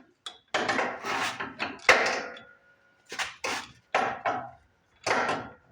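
Hand tools clanking and scraping on steel at the mower's blade and crankshaft bolt, in irregular separate bursts. One sharp knock about two seconds in leaves a brief metallic ring.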